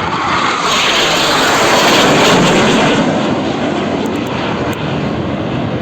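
Military jet flying past low, a loud roar that swells to a peak about two seconds in and then slowly fades.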